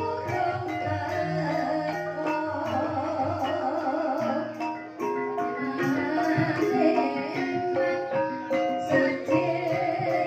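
Banyumasan gamelan playing a gending in the ebeg style: struck mallet instruments sounding a run of steady pitched notes over drumming, with a singer's wavering voice joining in about a third of the way through.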